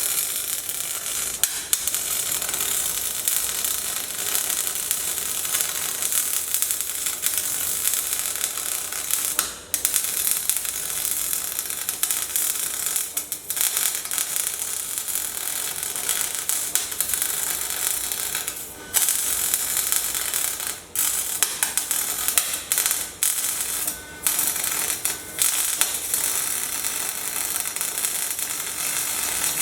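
Electric arc welding: the arc gives a steady crackling hiss, broken by several brief stops and restarts, most of them in the second half.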